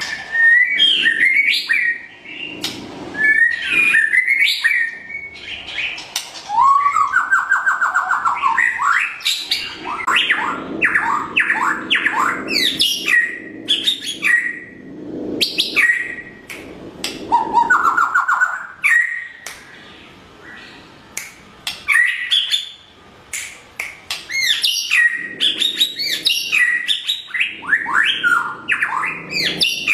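White-rumped shama singing a long, varied song: clear whistled notes mixed with fast runs of sweeping trills and sharp clicking notes, broken by short pauses between phrases.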